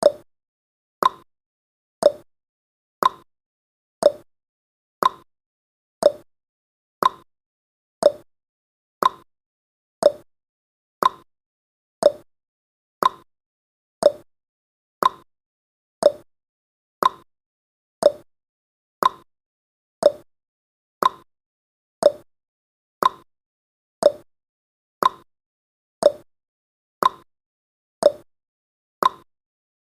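Clock-style ticking sound effect of a countdown timer: one sharp tick each second, alternating a higher tick with a lower tock.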